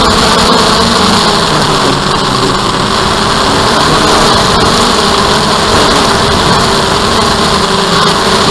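DJI Phantom quadcopter's motors and propellers running steadily, loud and with little change in pitch.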